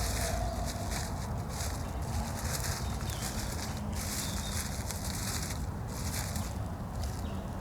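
Footsteps crunching and rustling through dry forest leaf litter in uneven bursts, over a steady low rumble of wind on the microphone.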